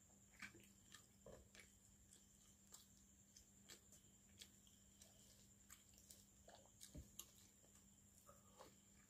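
Faint eating sounds from eating rice and fish curry by hand: scattered small mouth clicks and soft wet chewing, with a few squishes of rice near the end as a handful goes to the mouth.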